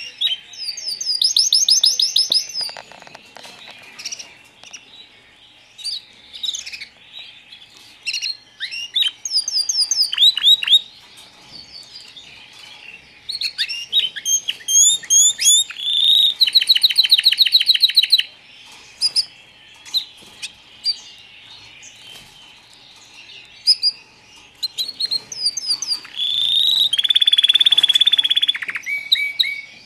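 Young white canaries chirping and singing: scattered short chirps, broken by rapid trills of fast repeated notes about a second in, around the middle, and near the end.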